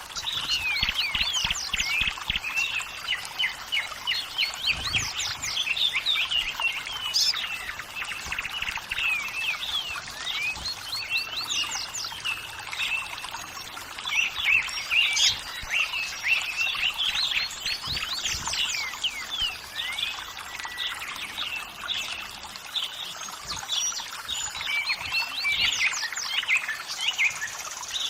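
Many birds chirping and singing in a dense, overlapping chorus of quick rising and falling notes, over running water trickling steadily.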